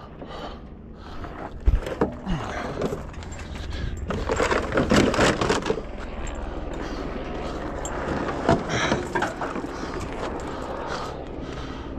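Metal clanks, knocks and scraping as an engine is worked loose and lifted with a hoist and chain, busiest a few seconds in, over a low steady rumble.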